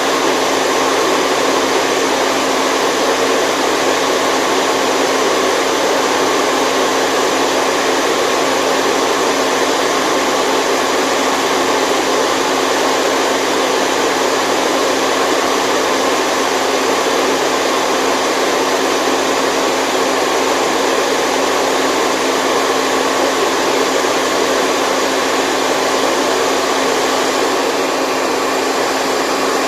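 Steady white noise for a baby's sleep: an even rushing hiss with a faint low hum underneath, unchanging in level and pitch.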